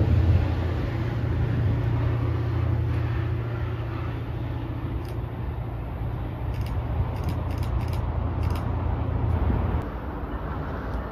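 A train's low, steady drone and rumble, dropping off sharply about ten seconds in.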